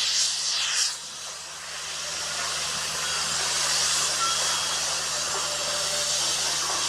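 A steady loud hiss, dipping briefly about a second in, over the low steady hum of a diesel engine on road-paving machinery.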